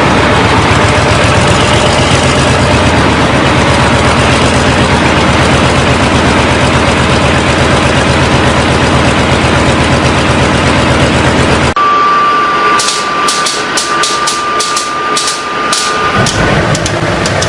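An engine running loud and steady, which cuts off abruptly about twelve seconds in. A series of sharp clicks with a thin steady whine follows, and a low engine sound comes in near the end.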